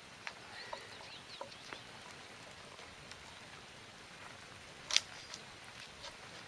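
Bark being stripped by hand from a dead birch branch: scattered light cracks and crackles, with one sharper snap about five seconds in.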